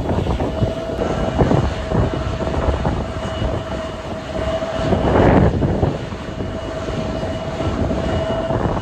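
Jet airliner engines running with a steady whine, heard under heavy wind buffeting on the microphone, with a gust swelling about halfway through.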